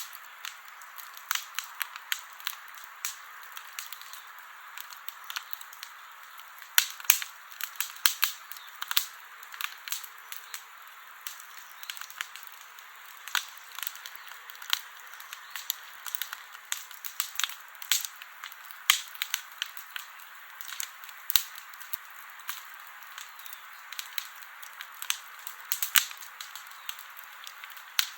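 Wood campfire crackling: irregular sharp pops and snaps, several a second at times, over a soft steady hiss of the burning.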